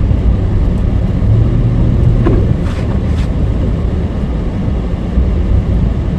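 A vehicle driving on a snow-covered road, heard from inside the cabin: a steady low rumble of engine and road noise, with a couple of faint clicks between two and three seconds in.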